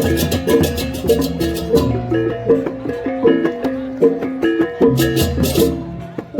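Balinese baleganjur gamelan: gong chimes ring out a quick repeating pattern of notes, with rapid cymbal clashing for the first two seconds that stops and comes back briefly about five seconds in.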